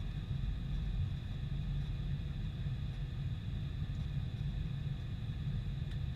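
Boeing 747-400 airliner with its engines running: a steady low rumble with a faint, steady high whine above it.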